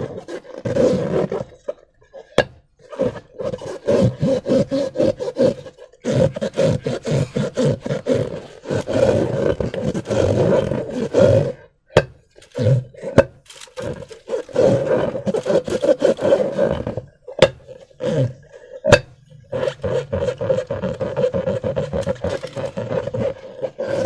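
Slime-filled rubber balloons being squeezed and worked by hand: repeated stretches of a buzzing, squeaky rubber-and-slime sound, each a second or two long, broken by short pauses and sharp clicks.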